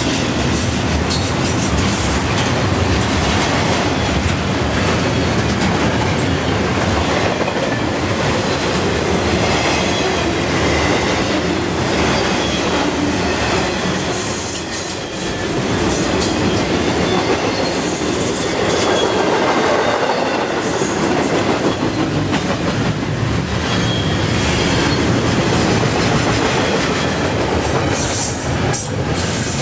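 Double-stack container well cars of a long freight train passing at about 40 mph: a steady rumble of steel wheels on rail with faint clicks at the rail joints, and a thin high-pitched wheel squeal near the middle.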